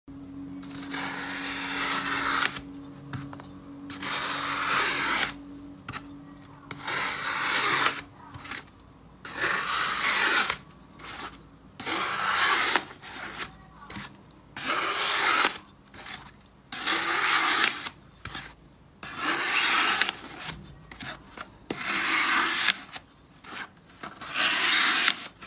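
Repeated scraping strokes, each about a second long, coming roughly every one to two seconds, with a faint steady hum under the first few.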